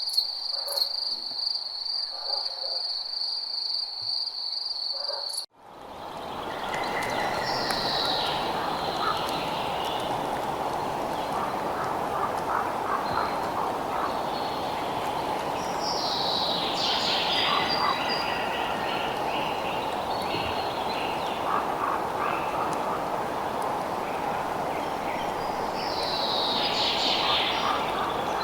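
Night nature ambience: a steady, high insect trill like a cricket's cuts off abruptly about five seconds in. A different recording then fades in, a dense steady chorus-like hiss with bird calls over it, including falling chirps that come about every nine to ten seconds.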